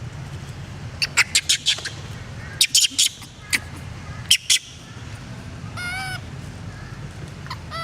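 Monkey calls: a run of loud, very short, sharp squeaks in two or three quick clusters, then a wavering pitched call near the end, over a steady low background hum.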